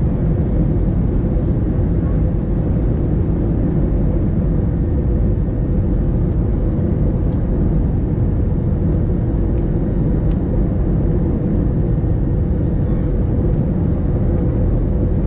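Steady engine and airflow noise in the cabin of an Airbus A321 airliner, with a constant hum running through it.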